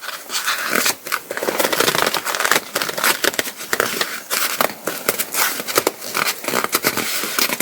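Paraglider ripstop nylon being handled, crinkling and rustling in a dense run of small crackles.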